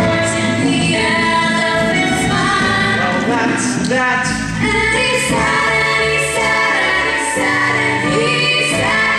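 A musical-theatre song: singing voices, a woman's and a chorus, over instrumental accompaniment.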